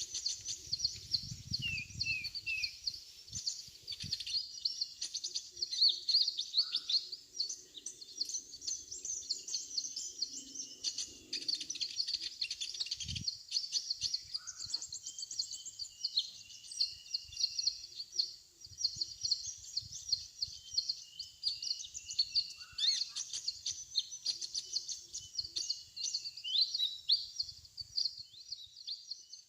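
Sunbirds (kolibri ninja) twittering: a dense run of rapid, high chirps and short trills that goes on without a break.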